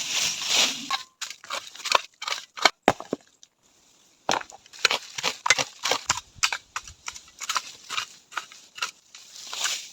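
Dry twigs and leaf litter crunching and snapping in a quick, irregular run of sharp cracks, with a short pause about three seconds in.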